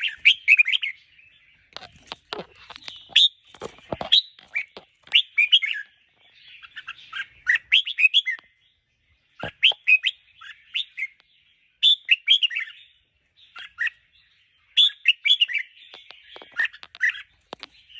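Red-whiskered bulbul singing short, bright warbling phrases, repeated every second or two with brief gaps, the rapid repeated song that keepers play to rouse their birds. A few sharp clicks sound among the phrases.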